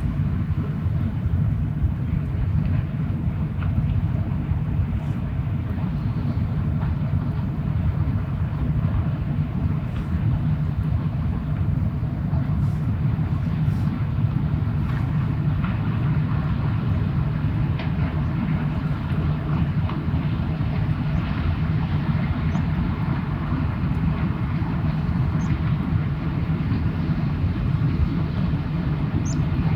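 Steady low rumble of a passing ship's engine.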